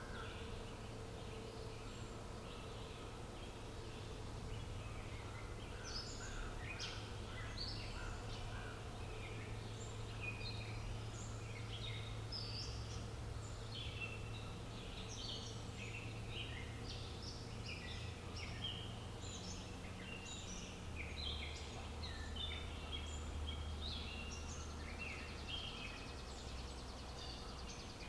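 Wild songbirds chirping and singing, many short calls overlapping densely throughout, over a steady low hum of outdoor ambience.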